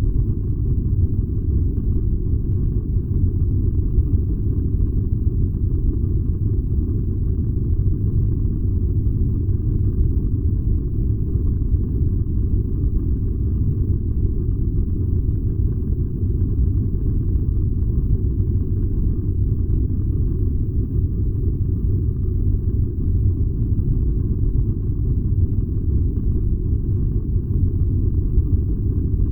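Furnace fire burning with a steady, low, even rumble.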